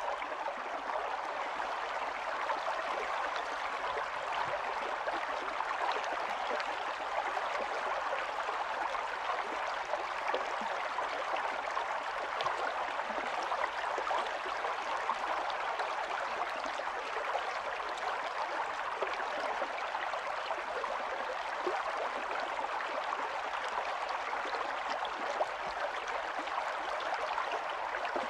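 Small brook running steadily over stones, a continuous babbling rush with fine splashing flickers.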